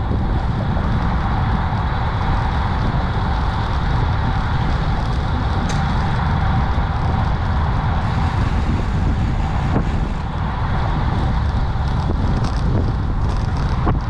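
Steady road and wind noise on a moving camera's microphone, a loud low rumble with a faint steady whine over it, and a few light ticks near the end.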